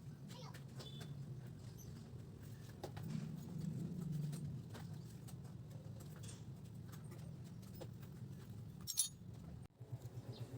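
Yamaha Mio Soul i 125 scooter's single-cylinder engine idling with a low, steady hum that swells briefly about three seconds in. There is a sharp click about nine seconds in.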